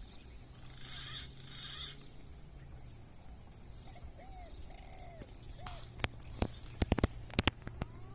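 Outdoor ambience: a steady high-pitched drone with short, arching bird calls every second or so from about halfway through. A quick cluster of sharp clicks comes about six to seven and a half seconds in.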